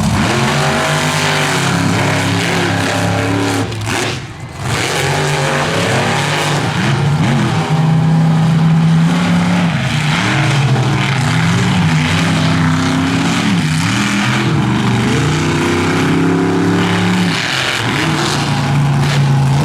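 Monster truck engine running hard, its pitch climbing and dropping again and again as the driver revs on and off the throttle. The sound briefly dips about four seconds in.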